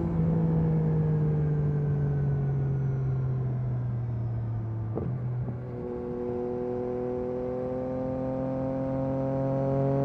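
Yamaha MT-09 SP's 890 cc inline-three through an Akrapovic carbon exhaust, easing off with the engine note falling for about five seconds. After a short break about five seconds in, the engine pulls again with its note slowly rising.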